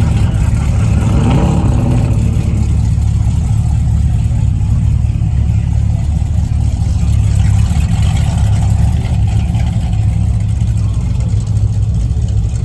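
Car engine running with a steady low rumble, and a brief voice about a second in.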